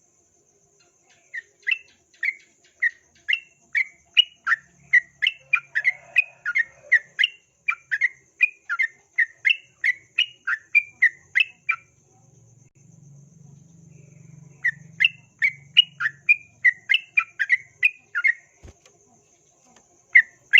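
Yellow-vented bulbul (trucukan) calling a long run of short, sharp, repeated notes, about two a second. After a pause of about three seconds, in which a faint low hum is heard, a second run follows, and one more note comes near the end.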